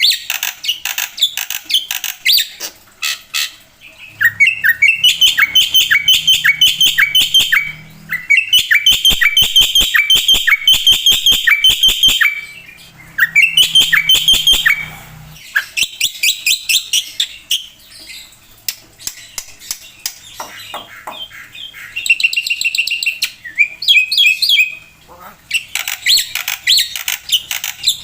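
Black-winged myna (jalak putih) singing loudly in fast runs of repeated harsh chirps and whistled notes, each run lasting a few seconds with short breaks between them.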